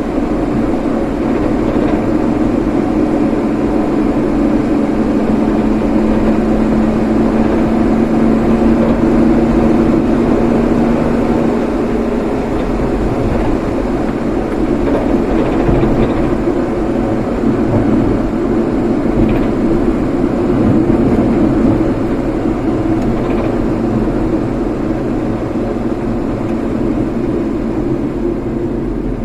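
Motor vehicle on the move: a steady engine drone over continuous road noise, the drone holding one pitch that fades around 12 seconds in.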